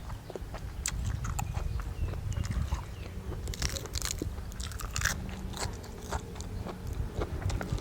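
A person eating a spicy seafood papaya salad close to the microphone: biting, crunching and chewing, with many short wet clicks.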